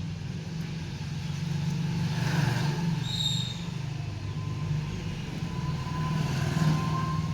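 Motor vehicle engine running with a low drone that swells twice, about two and a half and about six and a half seconds in.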